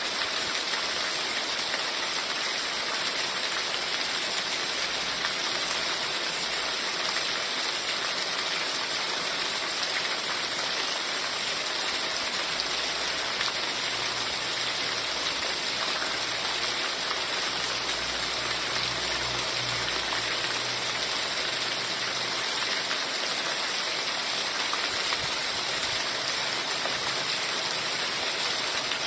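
Heavy rain falling steadily, an even, unbroken hiss of countless drops with no single drop standing out.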